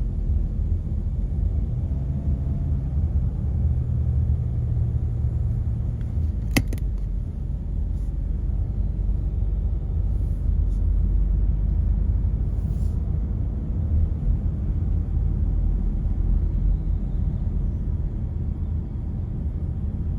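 A car driving along, with a steady low rumble of road and engine noise. One sharp click sounds about six and a half seconds in.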